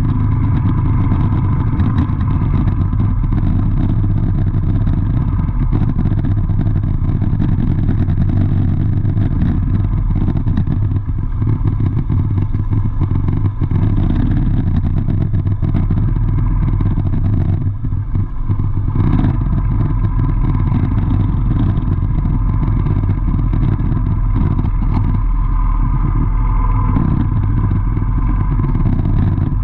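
Steady vehicle engine and road noise, a continuous low rumble with no clear changes in speed.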